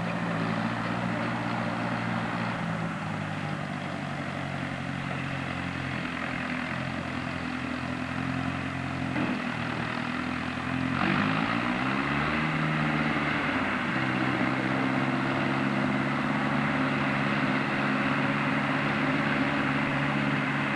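Tractor engine running steadily, its pitch swinging up and back down once about halfway through before settling back to an even drone.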